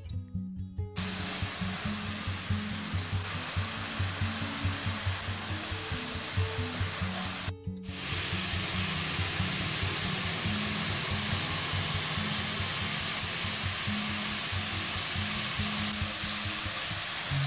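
Spice paste of garlic, shallot and coriander sizzling as it is sautéed in hot oil in a wok, starting about a second in with a brief break near the middle. Background music plays underneath.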